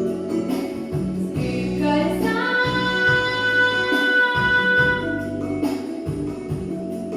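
A female vocalist sings a pop song over a backing track with a pulsing bass line, holding one long note for about three seconds in the middle.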